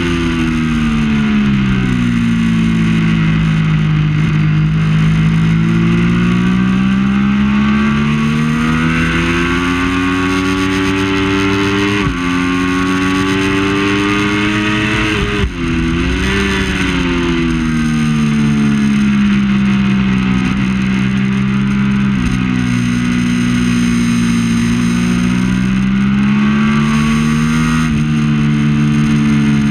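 Triumph Daytona 675's three-cylinder engine at racing speed, its revs rising and falling through the corners, with brief breaks for gear changes about twelve and fifteen seconds in.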